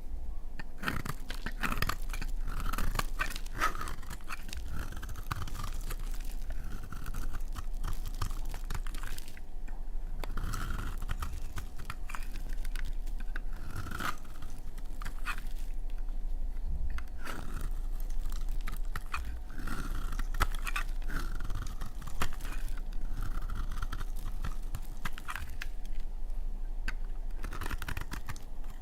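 Dry laundry soap being cut: a continuous run of crisp crunching and crackling, with scraping as the blade works through the hard, brittle soap.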